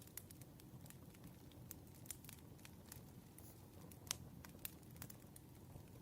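Campfire burning: a faint low rumble of flames with sparse sharp crackles and pops of the burning wood, one pop louder than the rest about four seconds in.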